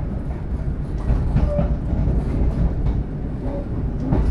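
Argo Parahyangan passenger train running on the rails, heard from inside the coach: a steady low rumble with a few sharp clicks from the wheels on the track.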